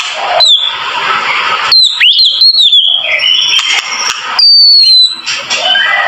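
White-rumped shama (murai batu) singing: a run of clear whistled notes that flick quickly up and down, with a loud, long, slightly falling whistle a little past the middle, over a busy chattering background at the start and end.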